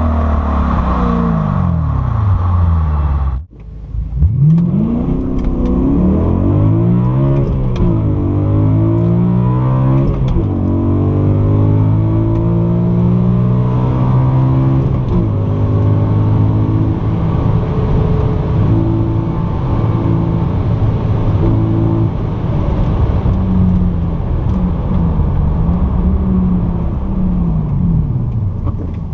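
BMW M3 E92's V8 engine heard through an Akrapovic Evolution Line titanium exhaust with X-pipe. The pitch falls at first, cuts out briefly about three and a half seconds in, then rises and falls repeatedly as the car accelerates, with longer steadier stretches later.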